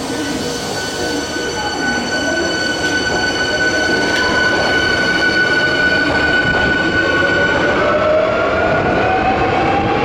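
Subway train at an underground station platform: a steady electric whine over a running rumble, with a second whine starting about eight seconds in and rising in pitch as the train gathers speed.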